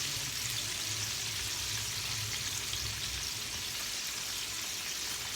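Flour-dredged chicken and pork chops frying in hot oil, a steady even sizzle.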